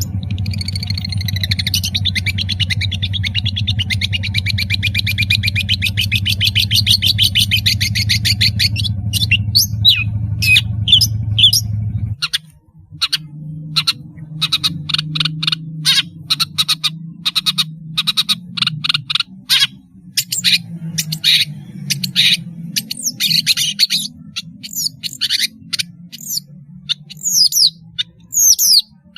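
Long-tailed shrike (pentet) song: about twelve seconds of a fast, dense chattering trill over a steady low hum, then an abrupt change to a string of short, sharp calls and whistles.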